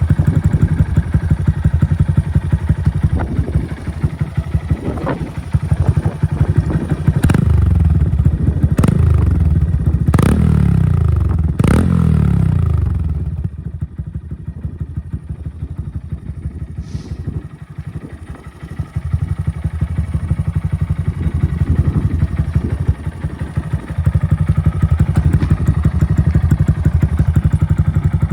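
Honda Grom's single-cylinder engine through a Yoshimura aftermarket exhaust: idling with a steady pulsing beat, blipped four times in quick succession with the revs falling back after each. It then idles more quietly for a few seconds before the louder idle returns.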